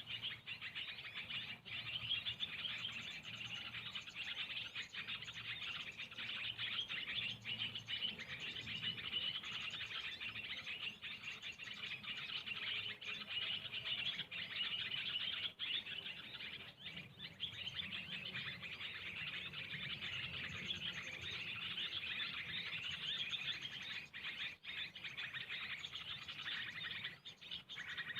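Small birds chirping and tweeting without a break, a dense run of quick high calls.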